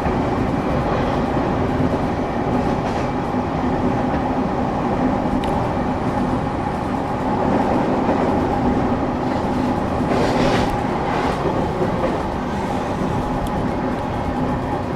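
Inside a moving electric train: a steady rumble of wheels on the rails and running gear, with a constant motor hum. A couple of brief sharper rattles come about two-thirds of the way through.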